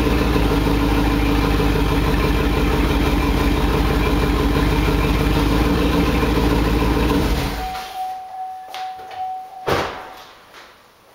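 Chevy 5.3 Vortec V8 idling with its exhaust dumped at the flex coupler, running open with no mufflers, steady and loud, then shut off about seven and a half seconds in. After it stops, a short steady beep and a single sharp thump follow.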